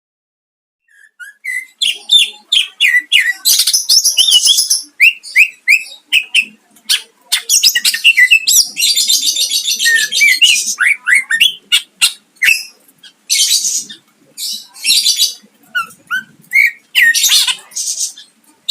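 Green leafbird (cucak ijo) singing a fast, varied song: quick high whistled chirps broken by several harsh, rapid rattling bursts (its 'tembakan'), starting about a second in.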